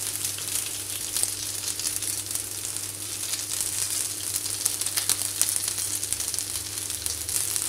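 Paneer tikka skewers (paneer cubes, tomato, onion and capsicum) frying in butter in a pan: a steady sizzle with a dense patter of small crackles.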